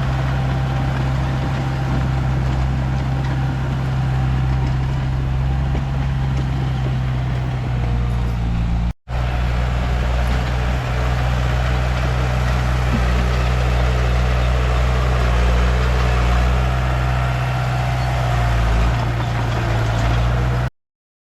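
Komatsu D31P bulldozer's diesel engine running steadily under work. The sound breaks off for an instant about nine seconds in, then cuts off abruptly near the end.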